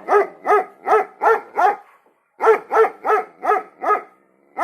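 A dog barking in quick, regular runs of about three barks a second, with a brief pause about two seconds in.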